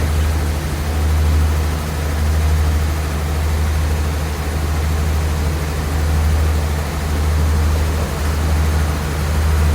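Diesel express train running, heard from inside a passenger coach: a steady low rumble that swells and eases every second or two, over a wash of running noise.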